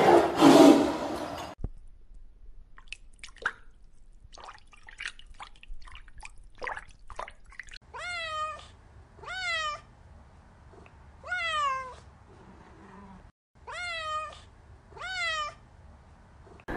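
A grey Scottish Fold cat meowing five times, each meow rising then falling, with gaps of one to two and a half seconds between them. Before the meows there are faint scattered clicks. At the very start a loud low sound cuts off abruptly about a second and a half in.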